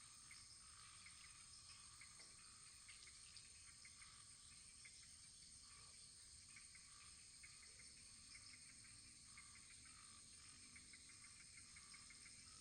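Faint crackling of a wood fire: many small, irregular pops and ticks over a steady high hiss.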